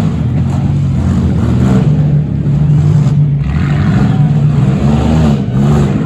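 Demolition derby cars' V6 engines running loud and revving, the pitch rising and falling as they accelerate and back off.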